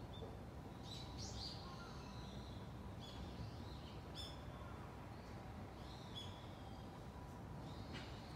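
Small birds chirping: short high chirps come singly and in pairs every second or two, over a steady low outdoor background noise.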